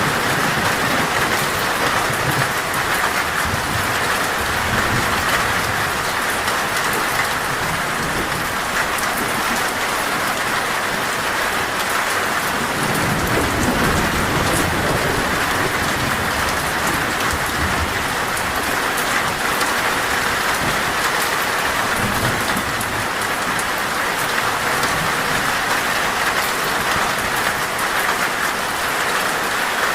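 Torrential rain falling steadily on a metal roof, with a low rumble of thunder about halfway through.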